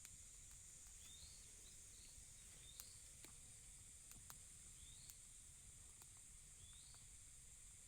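Faint outdoor ambience: a steady high-pitched insect drone, with a short rising bird call repeating about every second and a half and a few small clicks.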